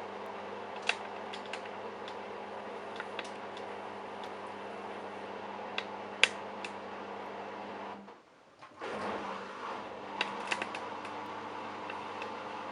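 Candy Bianca washing machine running steadily with a few light clicks. About eight seconds in, its drum motor stops for half a second and then starts again, as the drum pauses and reverses while it tumbles.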